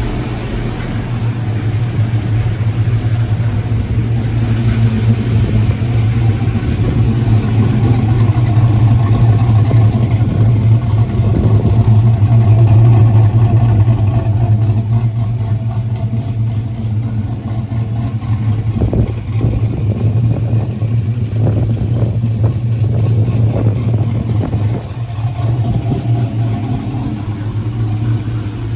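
Supercharged 416 cubic inch V8 in a GMC Denali running at a steady idle, loud and even, growing louder over the first several seconds and then holding.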